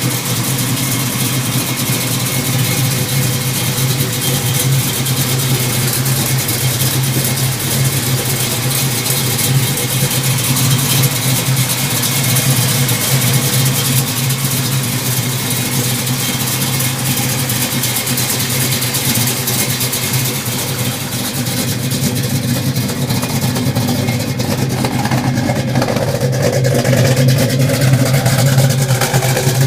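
1970 Dodge Challenger engine running at a steady idle, growing a little louder in the last few seconds.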